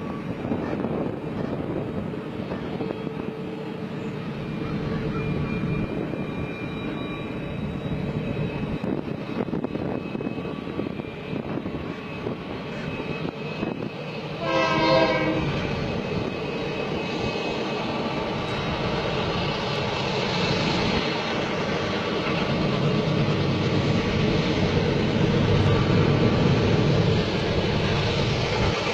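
Train running with a steady rumble, growing louder near the end, and a single short horn blast about halfway through.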